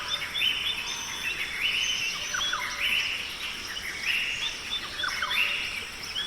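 Rainforest ambience: birds and insects calling, with one chirping call pattern repeating a little more often than once a second over a faint steady hiss.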